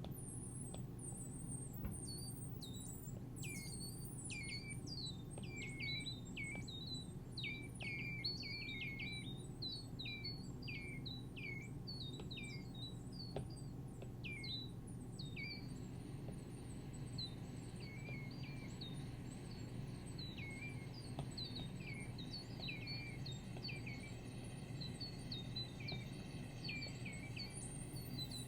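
Synthesized bird-like chirps from a Minimoog synthesizer app: quick downward-sweeping chirps of much the same shape, repeated in an irregular, twittering pattern over a steady low hum. The chirps are dense at first and thin out about halfway through.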